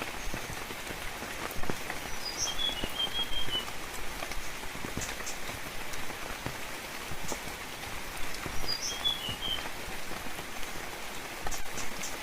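Steady rainfall pattering with scattered louder drips. A bird calls twice, about six seconds apart, each time a short high note followed by a quick run of chirps.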